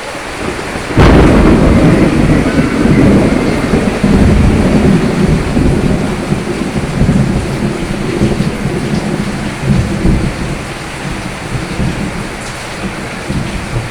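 Steady rain with a thunderclap: a sudden loud crack about a second in, then a long low rumble that slowly dies away under the rain.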